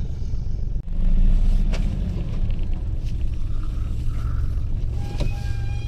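A car running on the road: a steady low rumble of engine and road noise. A few thin high tones come in near the end.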